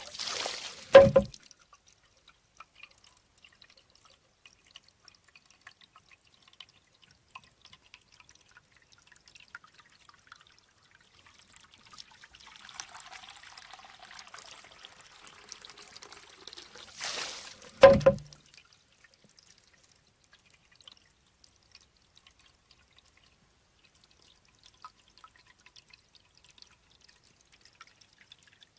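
Shishi-odoshi bamboo water fountain: water trickles and rushes from the bamboo tube as it tips, then the tube knocks back with a sharp, ringing clack. This happens twice, about a second in and again about 18 seconds in, with faint dripping between.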